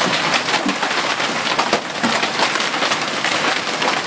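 Large hailstones pelting down in a dense, steady clatter of countless quick impacts.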